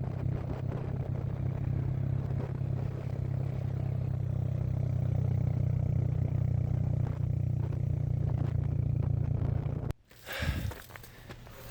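Steady low engine drone, like a vehicle running at an even speed, that cuts off abruptly about ten seconds in. It is followed by a short thump and fainter rustling.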